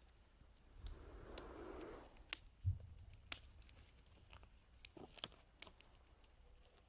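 Small wood campfire crackling, with scattered sharp snaps and cracks, a brief rustle about a second in and a dull knock near three seconds.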